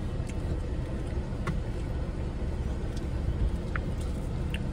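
Steady low rumble of a car idling with its air conditioning running, a faint steady hum over it. A few faint clicks as a plastic takeout container and fork are handled.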